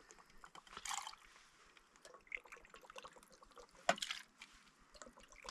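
Liquid trickling and dripping as a drink is poured, with small clicks and a sharp knock just before four seconds in.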